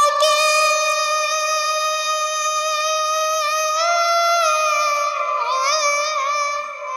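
A song sung by a high solo voice, holding long, steady notes that step up about four seconds in, with a quick wavering ornament near the end.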